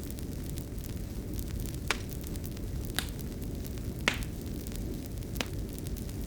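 Wood fire burning in a fireplace: a steady low rumble with four sharp crackles and pops, the loudest about four seconds in.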